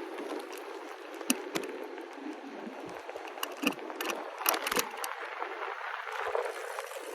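Bicycle riding along a street: a steady rushing noise of tyres and air, with a few sharp knocks and rattles from the bike, clustered about halfway through.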